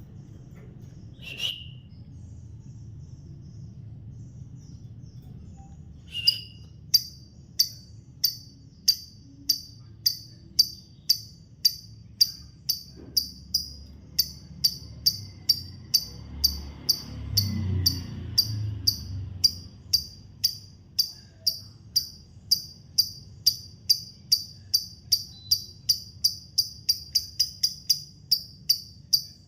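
Lovebird singing its ngekek: a long run of sharp, high chirps, about two a second and quickening toward the end. A single call comes about a second in, and a low rumble sounds briefly around the middle.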